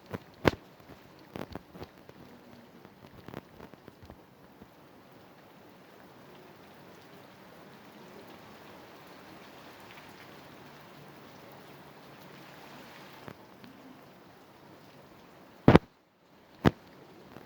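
A few sharp clicks or knocks over a faint steady hiss, the two loudest about a second apart near the end.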